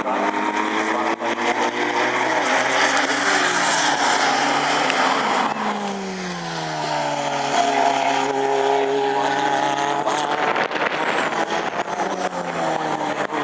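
Sports racing car engines at speed passing by, several in succession, each engine note dropping in pitch as the car goes past.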